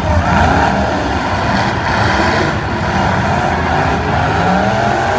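Several demolition derby cars' engines running and revving at once, their pitches wavering up and down.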